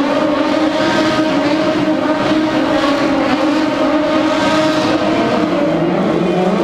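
Motorcycle engine held at high revs, its pitch wavering up and down and dipping near the end.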